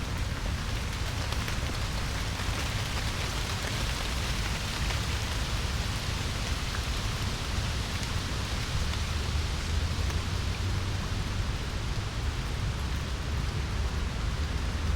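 Steady rain falling on wet autumn forest foliage, an even hiss of drops, with a low steady rumble underneath.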